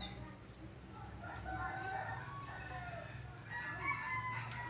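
Birds calling: several short, pitched calls overlap in two clusters, the second near the end.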